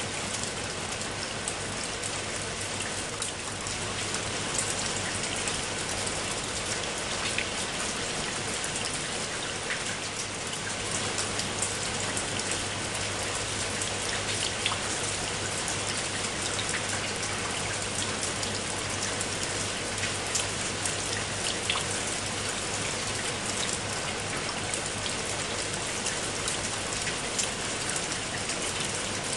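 Steady heavy rain: an even hiss with many sharp, close drop hits standing out.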